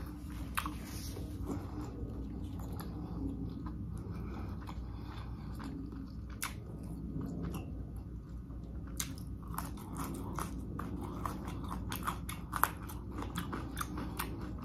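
Close-miked chewing of chicken and broccolini, with many short, sharp wet mouth clicks that come thickest in the second half.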